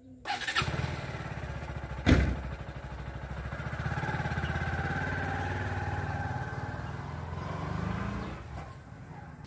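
Bajaj Pulsar NS160 FI motorcycle's single-cylinder engine starting up and running, with one sharp knock about two seconds in. It then rises in pitch as the bike pulls away and fades near the end as it rides off.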